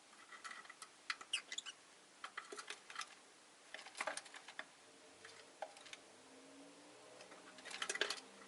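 Rosy-faced lovebirds in their cage making short chirps and scratchy clicks in several quick bursts, the loudest burst near the end.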